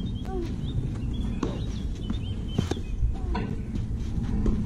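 Small birds chirping in short, repeated high chirps over a steady low background rumble, with a few sharp knocks about a second apart in the middle.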